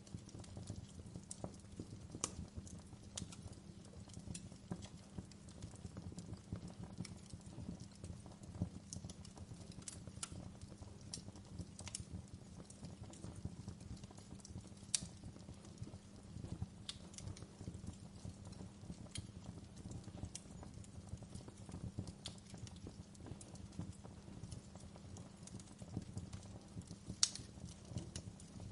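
Wood fire burning in a fireplace: irregular sharp crackles and pops over a low, steady rumble of flame, with two louder pops, one about halfway through and one near the end.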